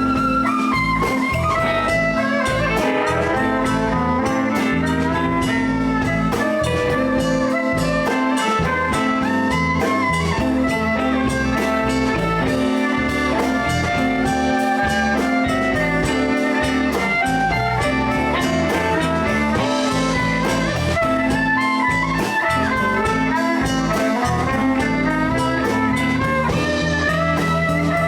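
Live blues band playing an instrumental passage: a lead line with bending notes over electric guitar, bass and drums.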